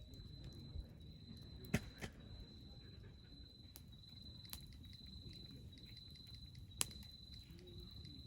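Wood fire crackling, with a few sharp pops, the loudest about two seconds in and near the end, over an insect's steady high-pitched trill that goes in phrases of about a second with short gaps.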